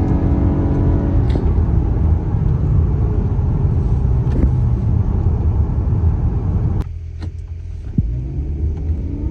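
Car driving on a highway: a steady rumble of road and engine noise. About seven seconds in, the upper part of the noise drops away suddenly and the sound turns quieter and duller, then partly comes back about a second later.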